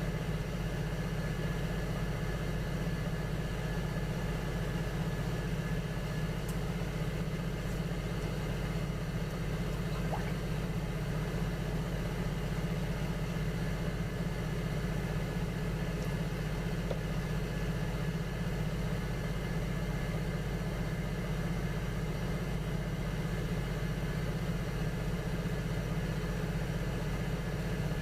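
Electric potter's wheel running steadily with a constant low motor hum while small vases are thrown, with a few faint ticks from the work.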